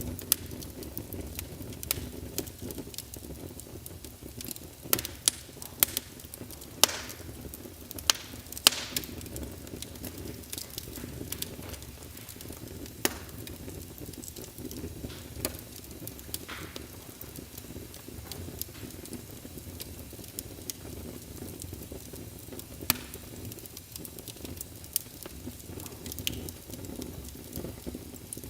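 Fire burning in a fireplace: a steady low rush with scattered sharp crackles and pops, and a quick run of louder pops between about five and nine seconds in.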